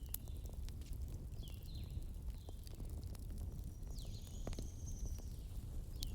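Campfire wood crackling with scattered sharp pops over a steady low rumble, while birds call in the background with short falling chirps, several times through.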